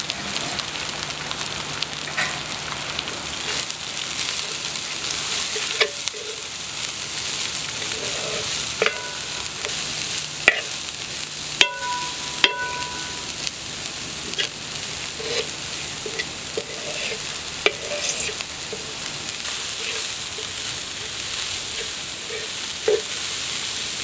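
Finely chopped raw jackfruit sizzling in hot coconut oil in a metal pan as it is stirred, with a steady hiss and scattered sharp taps of the spatula against the pan, a couple of them ringing briefly about halfway through.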